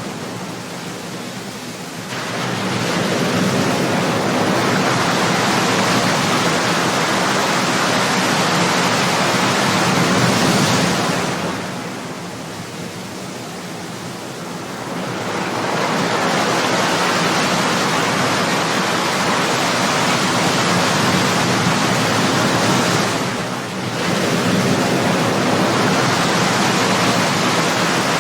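Ocean surf: waves breaking and washing in as a continuous rush of water that swells and eases, with a longer lull partway through and a brief dip near the end.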